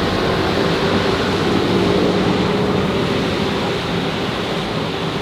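Steady city traffic noise: a continuous rush of passing vehicles with a low engine hum.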